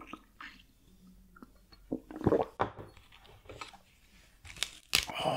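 Close-miked chewing of whole raw gizzard shad, its bones crunching in short scattered bursts, with the louder crunches about two seconds in and near the end.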